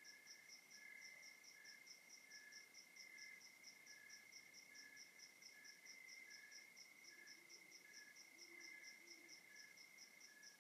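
Faint chorus of night crickets and other insects: a high chirp repeating about four times a second, over a steady lower trill and a slower pulsing note.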